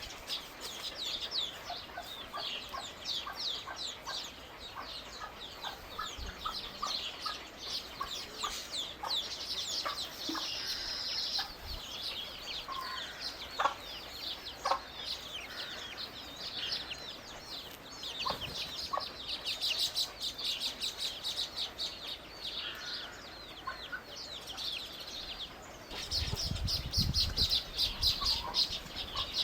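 Birds chirping in a dense, continuous chatter of rapid high chirps. A low rumble joins in near the end.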